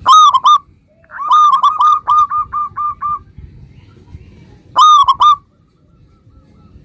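Zebra dove (perkutut) cooing: a short, bubbling phrase at the start, a longer run of quick, clipped notes about a second in that fades toward its end, and another short phrase near 5 s.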